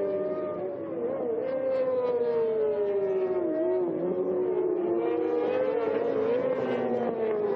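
Several superbike racing motorcycle engines running together on track, their pitches sliding down and rising again as the bikes shift and change speed.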